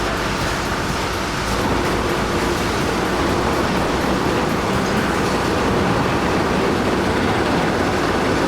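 Heavy machinery running with a steady, dense mechanical noise, a little louder from about one and a half seconds in.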